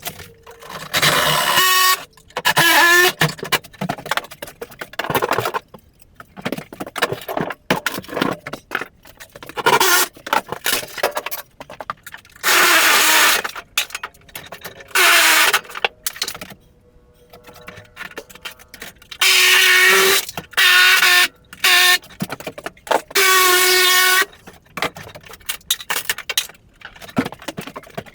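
Bursts of loud screeching from wooden floor framing being torn out, each a second or so long with pauses between, about eight in all.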